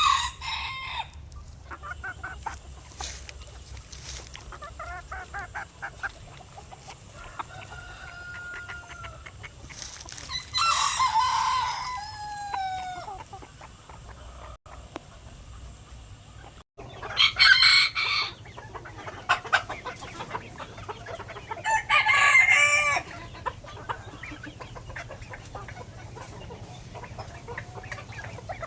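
Chickens clucking, with roosters crowing several times, loudest near the start, about ten seconds in, and twice more later on.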